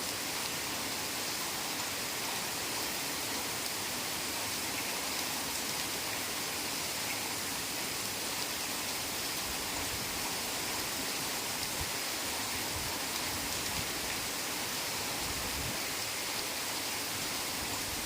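Heavy rain falling steadily on forest foliage, a dense even hiss with no let-up.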